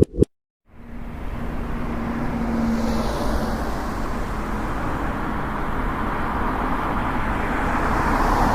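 A vehicle running: a steady engine and road rumble that starts after a brief silence and gets a little louder near the end.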